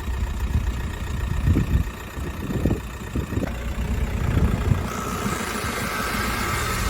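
Mk4 Golf's 1.9 TDI four-cylinder diesel engine idling while the car rolls on full steering lock, with several irregular creaking groans from the front running gear, the noise the owner hears only when moving on full lock and places at the offside front. A steadier higher hiss comes in about five seconds in.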